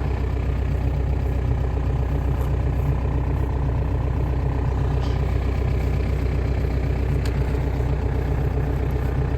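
Volkswagen Jetta's 1.9 TDI (ALH) four-cylinder turbo-diesel idling steadily, still running after a cold start.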